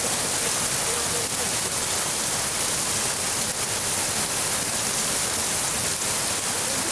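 Heavy rain falling steadily on a paved lane, an even hiss with no let-up, with a stream of runoff from a roof edge splashing onto the paving.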